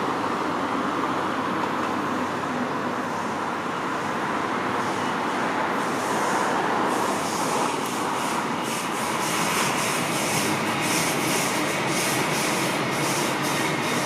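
Passenger train running on the rails with a steady rushing noise; from about five seconds in, a quick series of clicks is added, several a second, as the wheels pass over rail joints.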